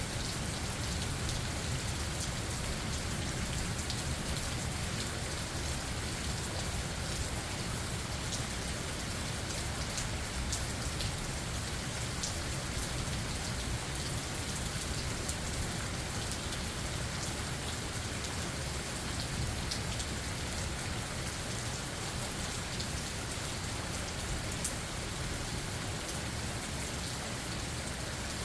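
Steady rain falling, with many separate drops ticking sharply near the microphone over a constant low background rumble.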